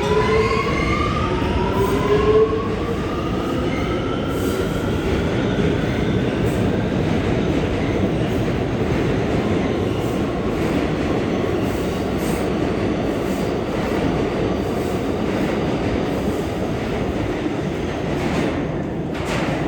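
Kawasaki R211A subway train accelerating: its motors give a whine of several tones rising in pitch over the first few seconds. The whine then fades into a steady rumble of steel wheels on the rails, with scattered clicks.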